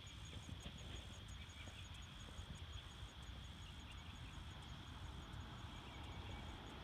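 Insects chirping steadily, one high chirp repeating about three times a second over a continuous high trill, above a low rumble of wind or distant traffic.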